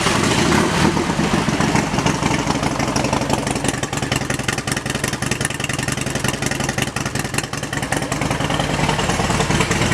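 A 2004 Harley-Davidson Road King's 88 cubic inch V-twin engine idling steadily through aftermarket Vance & Hines exhaust pipes, with a rapid, even exhaust pulse.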